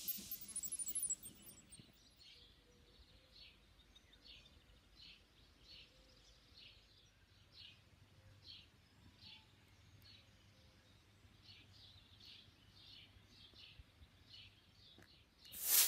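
A small bird chirping faintly over and over, short high chirps about two a second. A brief loud whoosh comes near the end.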